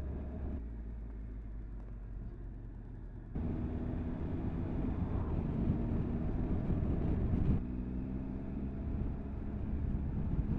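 Motorcycle engine running as the bike pulls away and picks up speed, getting suddenly louder about three seconds in, dropping back briefly about seven and a half seconds in, then rising again.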